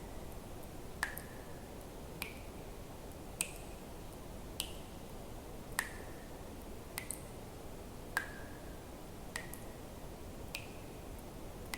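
Water drops dripping at an even pace, about one every 1.2 seconds, nine in all. Each is a sharp plink with a brief ringing tone whose pitch changes a little from drop to drop, over a steady soft hiss.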